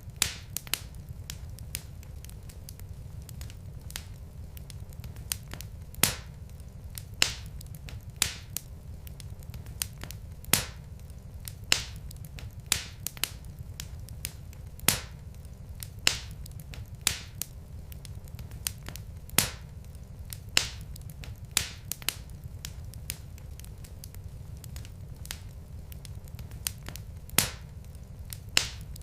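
Wood fire burning in a fireplace, crackling: sharp irregular pops about once a second over a steady low rumble.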